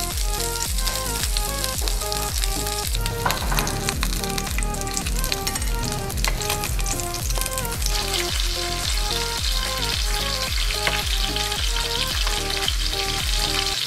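Pork belly skewers frying in a pan: a steady sizzle with scattered crackles that grows louder about eight seconds in. Background music with a steady beat plays along.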